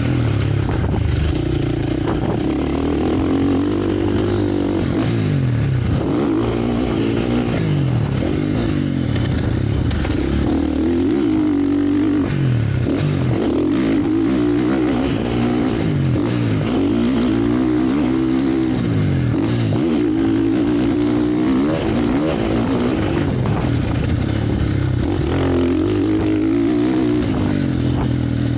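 Motocross bike engines revving up and down, pitch rising and falling over and over as they ride the track, with more than one engine heard at once.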